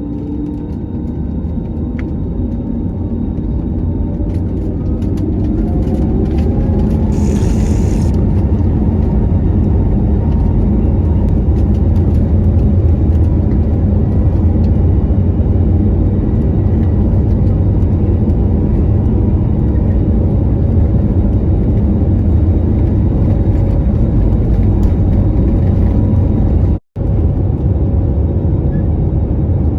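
Jet airliner heard from inside the cabin: a steady low rumble that grows louder over the first few seconds, with a rising whine as the engines spool up, typical of the start of a takeoff roll. A short hiss comes about seven seconds in, and the sound cuts out for an instant near the end.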